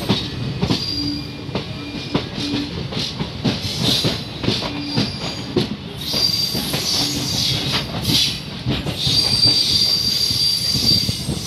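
Goods train of enclosed car-carrier wagons rolling past close by, its wheels clattering over rail joints. A high, steady wheel squeal sets in about six seconds in and is strongest near the end.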